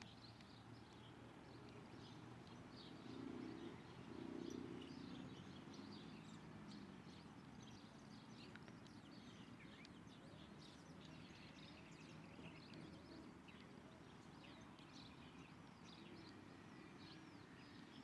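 Faint, busy chirping of small birds, many short high calls overlapping throughout, over a steady low background noise. A low rumble swells briefly about three to five seconds in.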